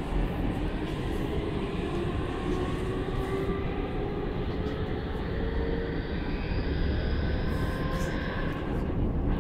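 Electric commuter train running, heard from inside the carriage: a steady rumble of wheels on rails, with the motors' whine climbing slowly in pitch as the train gathers speed.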